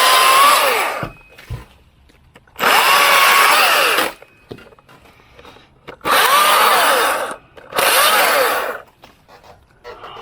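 Battery-powered top-handle chainsaw cutting branches in short bursts: a whine that stops about a second in, then three more bursts. In each, the pitch drops as the chain bites into the wood. Between bursts the saw goes silent rather than idling.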